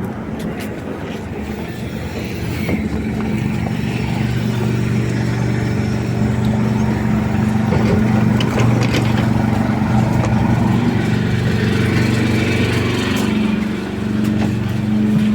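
BKM-321 trolleybus running, a steady electric hum under road and body noise that slowly grows louder.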